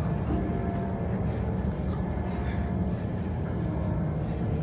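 Class 172/0 diesel multiple unit heard from inside the carriage: the steady rumble of the train running along the line, its underfloor diesel engine and wheels on the track, with a faint steady whine above it.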